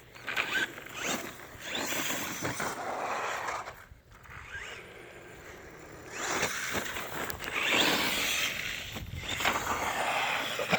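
Battery-electric Redcat Volcano EXP Pro RC monster truck driving in two runs, a rough whirring rush of motor, drivetrain and tyres. The runs last about four seconds each, with a quieter pause around four seconds in.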